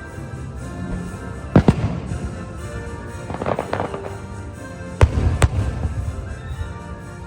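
Fireworks show: two sharp bangs about a second and a half in, a patter of crackling bursts a couple of seconds later, and two more bangs about five seconds in, over steady background music.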